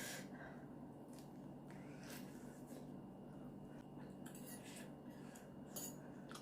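Quiet eating sounds from Samyang spicy instant noodles: chewing and slurping, with a few short clicks, over a steady low hum.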